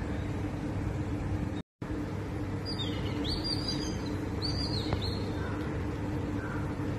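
A small bird chirps several times in quick succession in the middle, over a steady background of outdoor noise with a low hum. The sound cuts out completely for a moment, a little under two seconds in.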